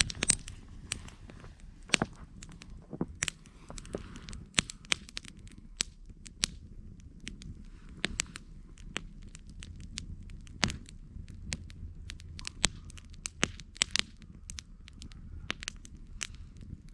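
Campfire burning, the wood crackling with irregular sharp pops and snaps, several a second, over a steady low rumble of the flames.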